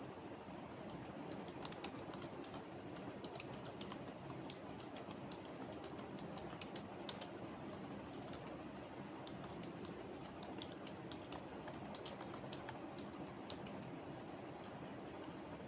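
Computer keyboard typing: irregular clusters of key clicks over a steady background hum.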